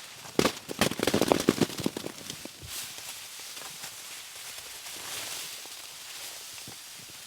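Dry wood cracking and snapping in a fast, loud run for about two seconds, then a steady hiss.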